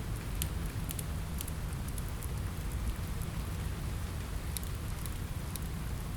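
Steady rain with a low rumble underneath, and a handful of sharp crackles from a fireplace fire: several in the first second and a half and a couple more near the end.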